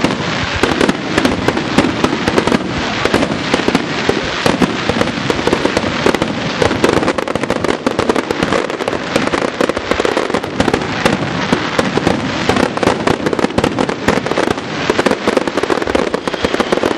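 Japanese star mine fireworks barrage: shells fired and bursting in rapid succession, dense overlapping bangs and crackles with no let-up.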